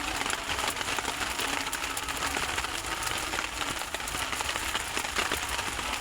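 Fried rice sizzling in a frying pan: a steady, dense crackle.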